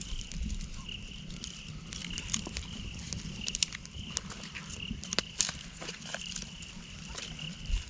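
Outdoor ambience: a high chirping that repeats a few times a second, with scattered sharp clicks and crackles over a low rumble.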